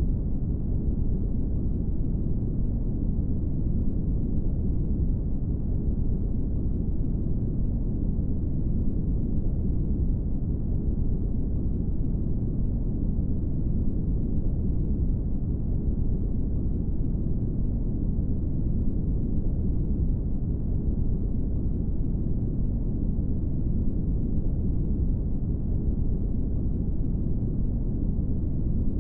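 Steady brown noise: a constant deep, low rumbling hiss with almost no high end, unchanging throughout.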